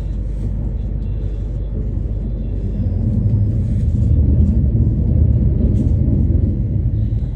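Inside a commuter train carriage: the low rumble of the train running on the rails, growing louder partway through and easing off again near the end.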